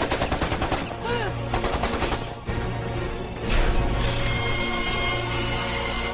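Rapid automatic gunfire, many shots a second, over dramatic background music for the first couple of seconds; the music then carries on alone and swells about four seconds in.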